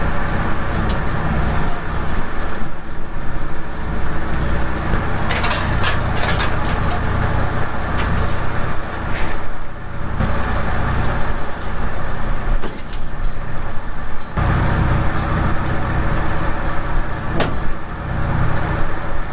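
Vehicle engine running steadily, its low hum shifting in level a few times, with a few brief clicks.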